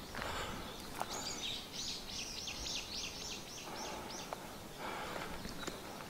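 A songbird singing a run of about a dozen quick, high notes, each sliding downward, at roughly three notes a second before it stops.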